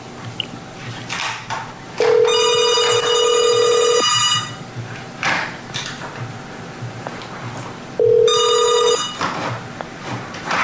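Telephone ringing: two rings about six seconds apart, the second cut short after about a second.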